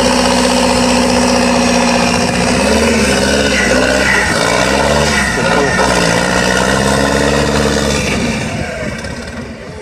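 Avia D31 truck engine running at steady revs, then revved up and down several times before it fades near the end.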